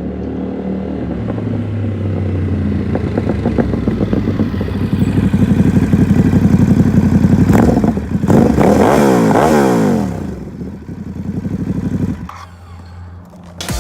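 Ducati Supersport S's 937 cc Testastretta V-twin through a Competition Werkes exhaust with baffle: the engine note builds and grows louder for several seconds, a sharp crack comes at the peak, then the pitch drops quickly and the engine settles to a quieter, lower rumble near the end.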